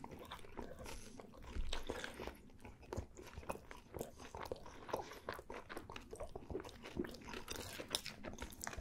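Chewing and crunching a bite of baked pepperoni pizza crust, with many short, irregular crackles.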